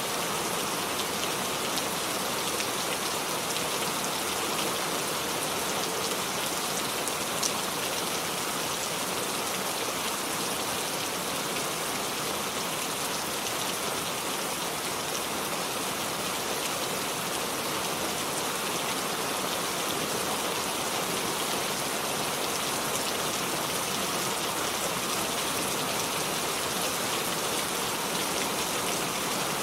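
Steady rain falling on surfaces: an even, unbroken hiss, with one sharper tick about seven seconds in.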